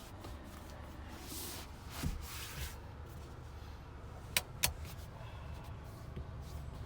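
Inside a car cabin: a steady low hum, a swishing rustle about a second in, and two sharp clicks about a quarter second apart from interior fittings being handled.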